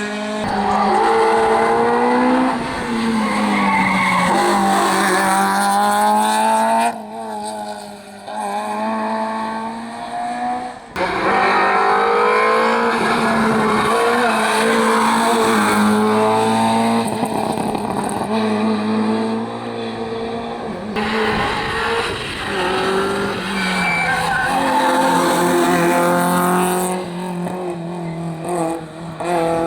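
Rally cars at full attack on a special stage, engines revving up and down through the gears with tyres squealing. Several passes follow one another with sudden breaks between them.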